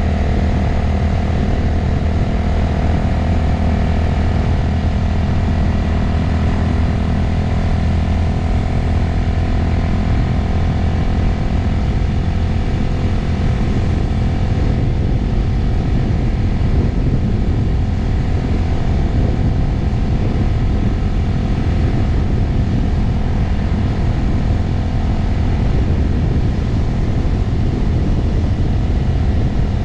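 Motorcycle engine running steadily while riding, with wind noise rushing over the camera microphone.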